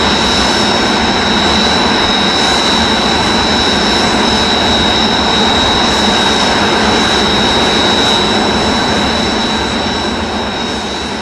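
Kawasaki T-4 jets' IHI F3 turbofan engines running on the ground, several aircraft together: a steady high-pitched whine over a loud rushing noise, getting a little quieter near the end.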